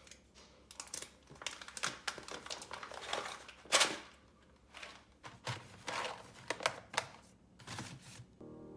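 Irregular light clicks, taps and rustling of small objects being handled, with one louder knock about four seconds in. Soft piano music comes in near the end.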